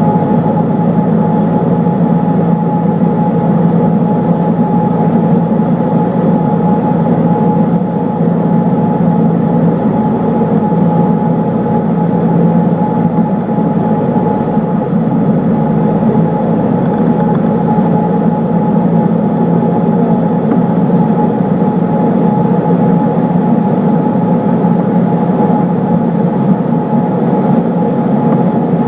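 Cessna 152's four-cylinder Lycoming engine and propeller running at a steady, unchanging drone.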